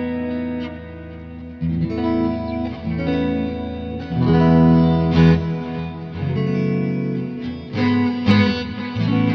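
Electric guitar played through the Neural DSP Mesa Boogie Mark IIC+ Suite amp-modelling plugin on a lead preset: a melodic line of held, sustaining single notes that change pitch every half second or so, with a brief softer gap about a second in.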